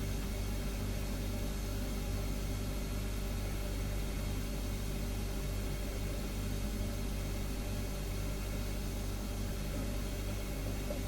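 Refrigerator compressor running, a steady low hum with a faint hiss over it.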